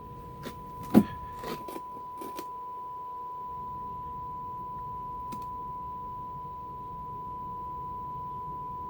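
Steady high test tone from the Nordmende Caruso tube radio's speaker: the modulation on a 10.7 MHz FM alignment signal, heard while the IF stages are being peaked. Several clicks and a knock from handling in the first couple of seconds, the loudest about a second in, and one more click near the middle.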